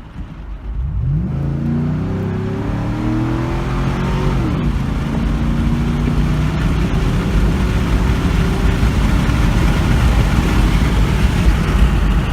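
Exhaust of a 2008 Chevy Tahoe's 5.3-litre Vortec V8 through a Borla Pro XS muffler, under acceleration. The engine pitch climbs about a second in, falls at a gear change about four and a half seconds in, then holds steady under a growing rush of noise.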